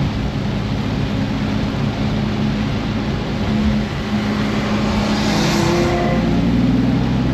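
BMW F82 M4's twin-turbo straight-six running on track in heavy rain, heard from inside the cabin with the window down, under a steady hiss of rain and tyre spray. A swell of hiss comes about five seconds in, and the engine note rises near the end as the car accelerates.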